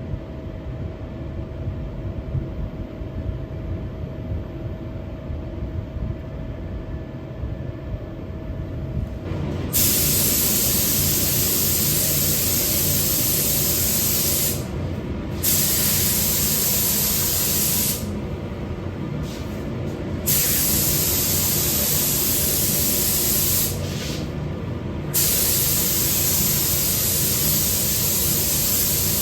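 Paint spray gun hissing as it sprays 2K acrylic paint. It starts suddenly about a third of the way in and runs in long passes with three short breaks. Before it starts, only a steady low hum.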